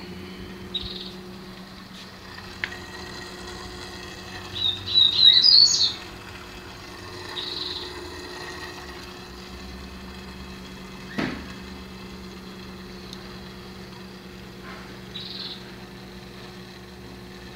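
Birds chirping now and then, the loudest a quick rising run of chirps about five seconds in, over a steady low hum. There is a single click about eleven seconds in.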